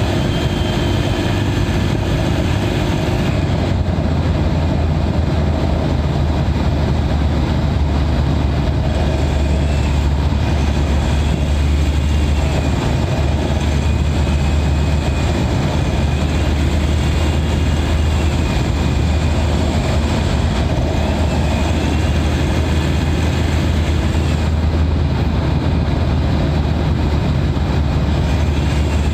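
Mitsubishi Pajero Sport Dakar's 2.4-litre turbodiesel running steadily at highway cruising speed, heard from inside the engine bay: a deep, even drone with a faint turbo whistle that wavers slightly above it.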